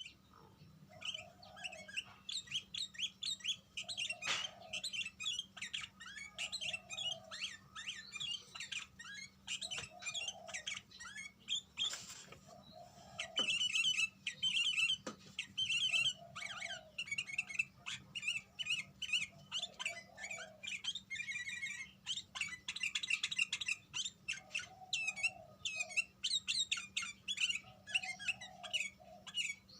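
Bird chirping in quick, continuous twittering, with a lower, short note repeating every two to three seconds underneath, and a faint steady hum.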